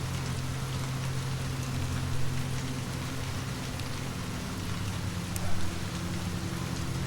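Steady rain falling on a surface, an even hiss of many drops over a low, steady hum. There is a brief louder moment about two seconds in and another about five and a half seconds in.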